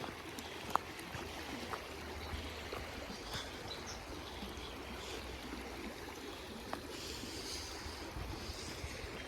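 A creek flowing steadily, with a few short, sharp clicks over it.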